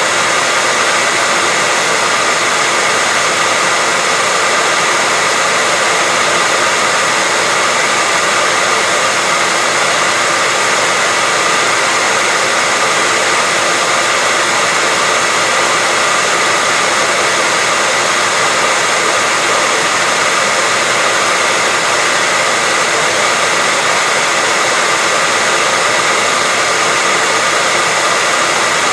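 Hair dryer running continuously at a steady pitch and level: a constant rush of air with a faint steady whine from its motor.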